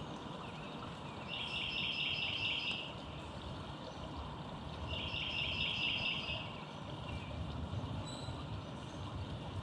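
A songbird sings a short, fast trill twice, about three and a half seconds apart, over a steady low rumble of distant traffic.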